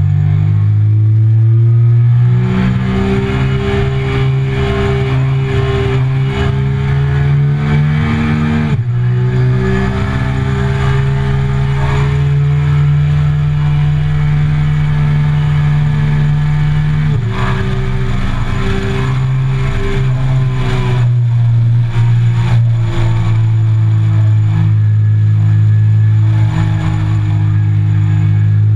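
Triumph Speed Triple 1050's inline three-cylinder engine pulling hard on track, its note slowly climbing under acceleration. The pitch drops abruptly at an upshift about nine seconds in, drops again about seventeen seconds in, and rises once more near the end. Wind rushes and buffets past the onboard microphone throughout.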